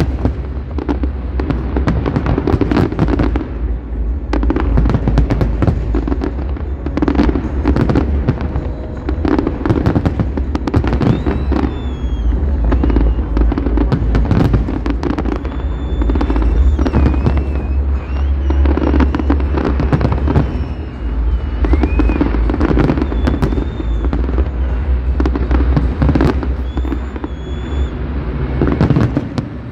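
Large fireworks display: aerial shells bursting one after another in rapid, overlapping bangs and crackling, without a break.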